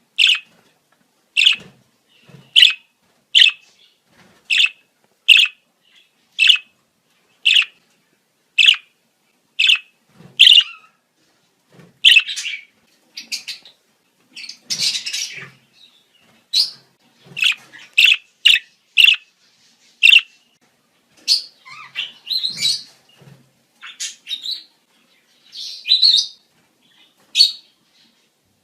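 Budgerigars' breeding-season calls. It opens with a regular run of short, sharp chirps about every two-thirds of a second, then turns to busier, more varied warbling chatter from about halfway through.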